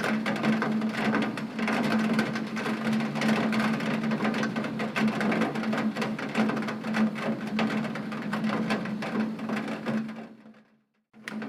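Heavy rain pattering on a window pane, a dense patter of drops with a steady low hum underneath. It fades away about ten seconds in, goes silent for a moment, then starts again abruptly near the end.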